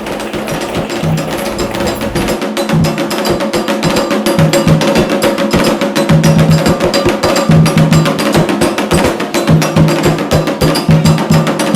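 Candomblé ritual percussion: a fast, dense run of sharp strikes over recurring low drum notes, building in loudness over the first few seconds.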